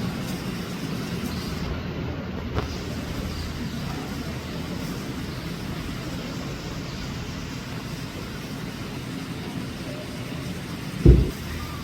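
A steady low rumble of background noise, with one loud, deep thump about eleven seconds in.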